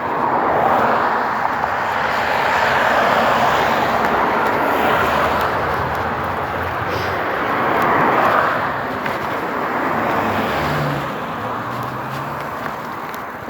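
Road traffic passing, a steady rushing noise that swells as cars go by, about a second in and again around eight seconds, then eases off.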